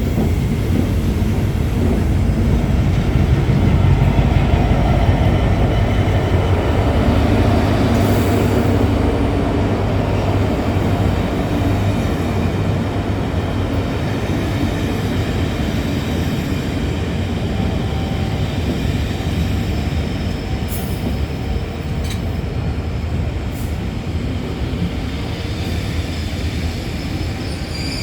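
A locomotive-hauled passenger train (Class 73 electro-diesels and a Class 66 diesel) running slowly into a station. The heavy rumble of locomotives and wheels is loudest about four seconds in and then fades gradually as the train slows, with some thin wheel squeal near the end.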